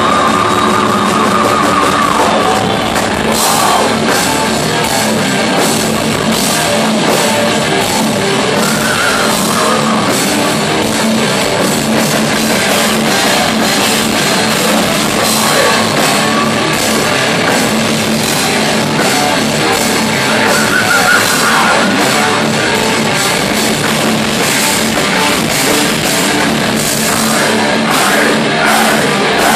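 Live heavy metal band playing: distorted electric guitars over a drum kit with a steady cymbal beat, loud throughout.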